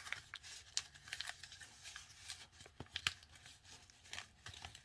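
Sheet of paper being handled and pressed while a folded paper airplane's nose is adjusted: scattered faint crinkles and soft taps.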